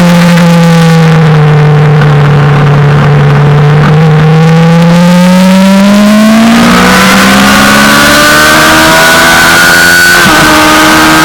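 Suzuki GSX-R600 inline-four sportbike engine heard from on board at track speed: the engine note falls away, then climbs hard under acceleration, breaking in pitch about seven and ten seconds in as gears change. Wind rush grows louder as the bike picks up speed.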